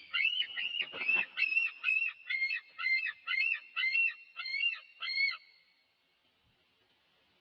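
A bird calling in a fast, regular series of harsh, pitched calls, about two to three a second, which stops about five and a half seconds in.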